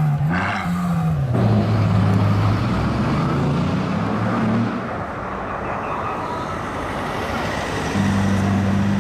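Car engine idling loudly on the street with a quick throttle blip right at the start, over steady traffic noise.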